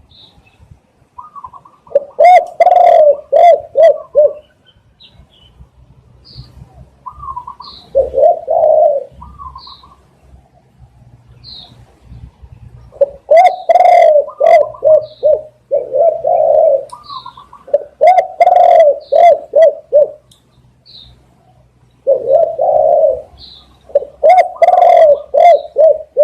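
Spotted dove cooing: phrases of several quick, throaty coos, repeated every few seconds. Short, high chirps sound in the gaps between phrases.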